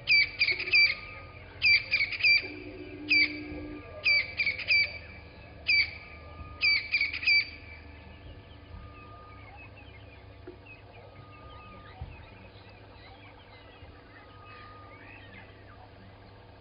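Wild birds calling in the morning. A loud, harsh call repeats in short clusters of two to four notes for about the first eight seconds, then gives way to a softer scatter of chirps.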